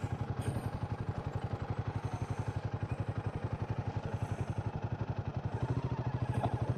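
Motorcycle engine idling with a steady, rapid beat of even low pulses.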